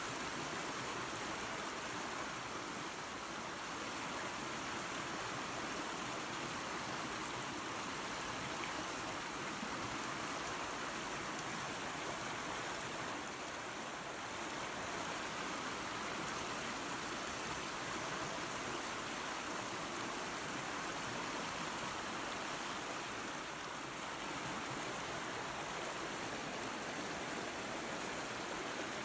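Steady rushing of a creek and small waterfall, an even water noise with no breaks.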